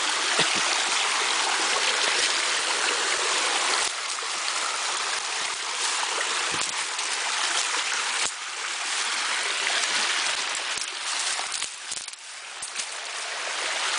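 Small creek water tumbling over rocky cascades, a steady rushing splash that drops in loudness briefly a few times.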